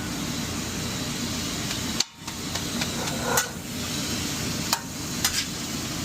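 Cheesesteak meat sizzling on a flat-top griddle, with a few sharp clacks of metal spatulas striking the griddle.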